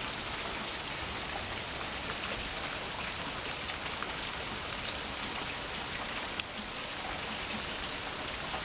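Heavy Arizona monsoon rain falling steadily, an even hiss with scattered drops ticking, one sharper tick about six seconds in.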